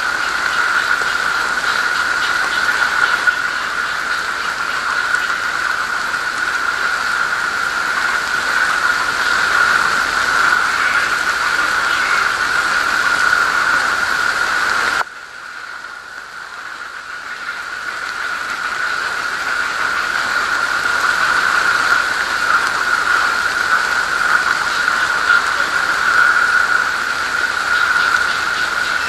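Steady rain hiss, with a steady high tone running through it. About halfway the sound drops suddenly and then builds back over a few seconds.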